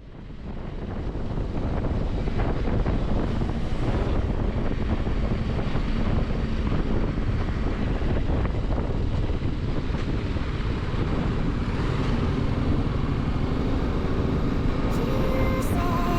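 Motorcycle riding noise: wind rushing over the microphone over steady engine and road noise, fading in over the first couple of seconds. Music comes in near the end.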